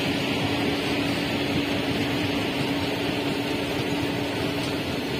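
Passenger coaches of an express train rolling past at speed, a steady rumble of wheels on the rails.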